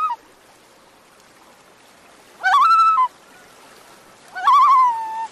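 Bird calls: two rising cries that then waver on a held note, each under a second long and about two seconds apart, with the tail of a third at the very start, over a faint steady hiss.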